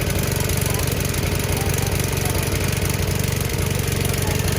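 An engine running steadily at an even idle, with a fast, regular firing beat.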